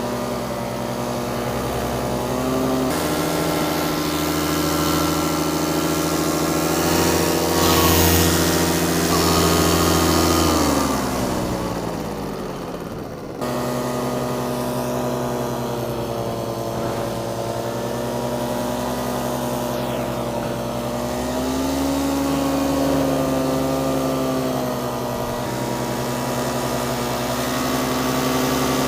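Paramotor engine and wooden propeller running steadily in flight, on a freshly welded, repaired exhaust. Its pitch steps up about three seconds in, slides down around ten to thirteen seconds as power comes off, then jumps back up and holds steady with slight wavering.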